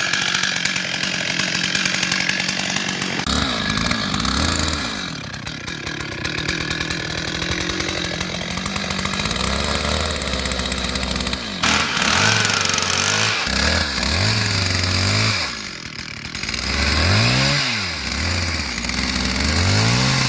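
Chainsaw running under load, cutting the felling back cut into a tree trunk; its engine note dips and rises again several times in the second half as the throttle is eased and reopened.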